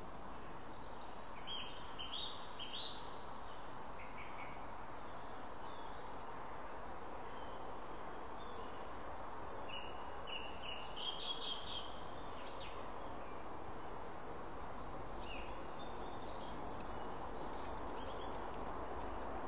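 Songbirds chirping and singing short phrases in a few clusters, a couple of seconds in, around the middle and again later, over a steady background hiss.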